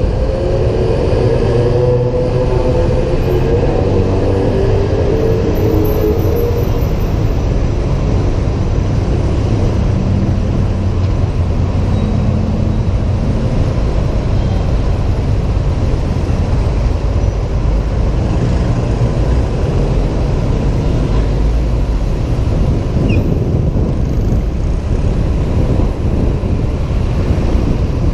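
Wind buffeting a helmet-mounted camera while riding a Honda PCX 125 scooter in traffic, under a steady wash of engine and road noise. In the first several seconds an engine's pitch can be heard shifting before it fades back into the rumble.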